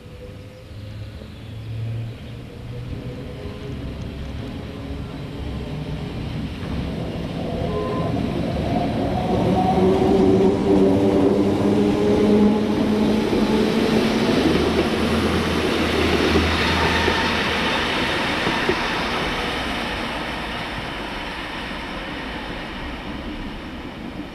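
Rhaetian Railway ABe 4/4 electric motor coach and its passenger cars passing close by, with steady humming tones over the running noise. It grows louder to a peak about ten to thirteen seconds in, then fades as the train goes into a tunnel.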